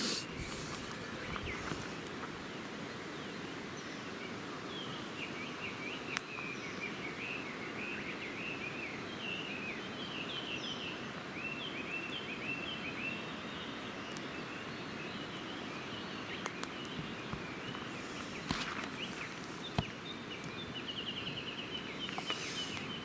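Small birds chirping over a steady low outdoor rush, with a few sharp pops from a wood campfire. The chirping comes in a run of calls through the middle and a quick trill near the end.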